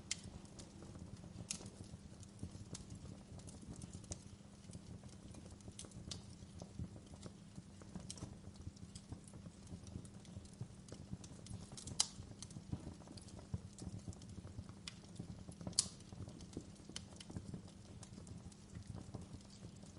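Wood fire in a fireplace crackling, with a low steady rumble of the burning and scattered sharp snaps and pops at irregular intervals, the two loudest about 12 and 16 seconds in.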